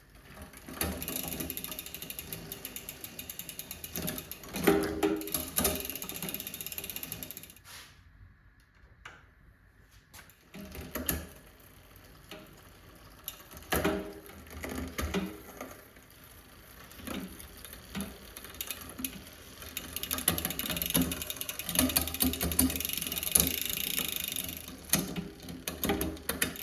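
Mountain-bike drivetrain turned by hand on a stand: the new chain running over the cassette and a freshly fitted SRAM GX derailleur, with the rear freehub ratcheting in rapid clicks. It comes in three long spells with quieter pauses between, as the derailleur's limit screws are being set.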